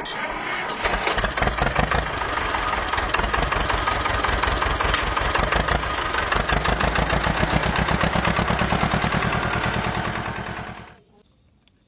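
Motor of a miniature model tractor running with a rapid, even chugging pulse, then cutting off about eleven seconds in.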